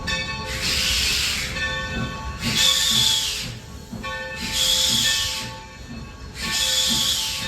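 Coal-burning steam locomotive hissing steam in regular bursts about every two seconds, each lasting about a second, over a steady whine of several tones.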